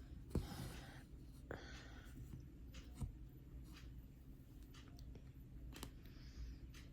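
Cross-stitch needle and thread drawn through 18-count fabric: short, soft swishing pulls with a few sharp clicks, the loudest about half a second in and another about three seconds in.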